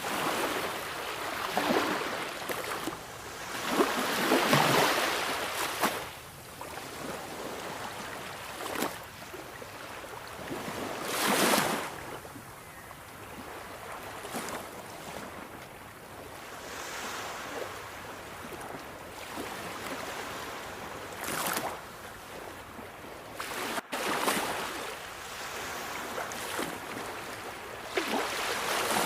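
Sea waves washing onto a shore, a steady hiss of surf that swells into louder breaking surges every several seconds.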